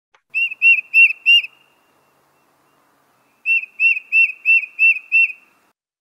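Tufted titmouse singing its whistled "peter, peter, peter" song: a phrase of four clear notes, then after a pause of about two seconds a phrase of six.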